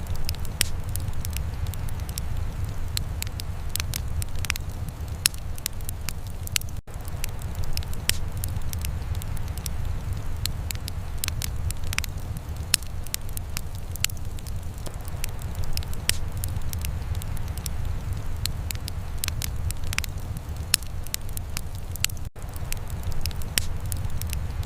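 Wood fire crackling, with frequent irregular sharp pops over a steady low rumble. Twice the sound drops out for an instant.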